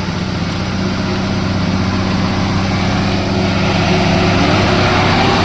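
A heavy diesel engine running steadily under load, slowly getting a little louder.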